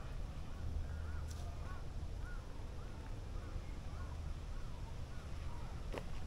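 Birds calling in short repeated chirps over a low steady rumble, with one sharp click near the end.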